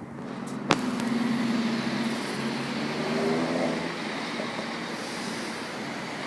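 A train passing close by: a steady rushing run with an engine note under it, after a sharp bang just under a second in.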